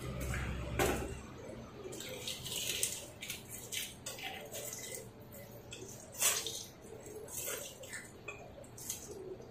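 Close, wet mouth sounds of biting and chewing boiled egg, with scattered small clicks and crackles.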